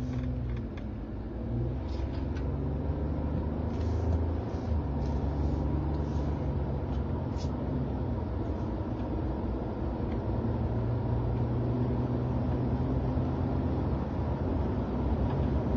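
A car driving, heard from inside the cabin: a steady engine hum and road noise, the engine note shifting in pitch a few times, with a few faint clicks in the middle.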